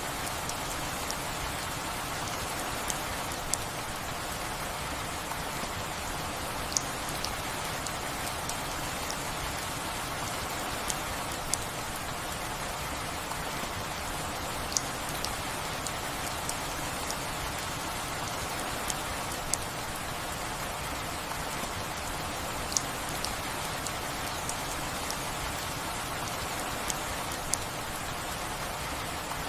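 Steady rain falling, an even hiss with scattered sharp drips and taps of individual drops landing every second or two.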